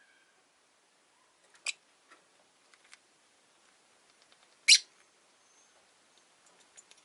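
Rosy-faced lovebirds in a cage: two short, sharp chirps about three seconds apart, the second louder, with faint scattered ticks in between.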